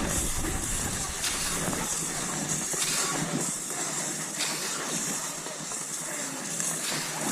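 Cross-country skis swishing and scraping over snow in a steady stride, a brighter swish about every one and a half seconds.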